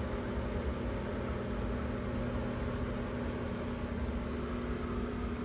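Bosch microwave oven running a heating cycle, a steady hum with an even low drone and no change. It is working again after its door switches and blown fuse were replaced.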